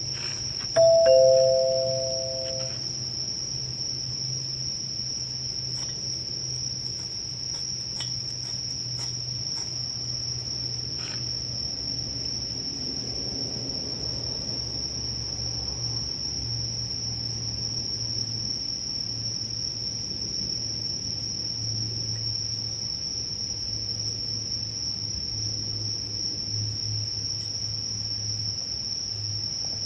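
Crickets trilling steadily on one high pitch. About a second in, a two-note chime sounds, a higher note followed by a lower one, ringing for about two seconds. A low hum and a few faint clicks lie underneath.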